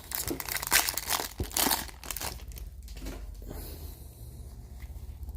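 Foil wrapper of a hockey card pack crinkling and tearing as it is handled, busiest in the first two seconds, then lighter rustling over a low steady hum.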